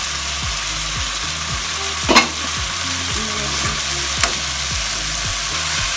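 Chopped green onions, potatoes and tomato sizzling in hot oil in a wok while a slotted metal spatula stirs them. There is one sharp knock of the spatula against the pan about two seconds in and a lighter one about four seconds in.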